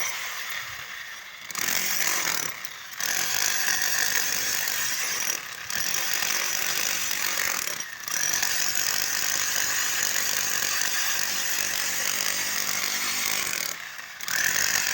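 A power tool running steadily with a harsh, high-pitched noise, cutting out briefly about four times.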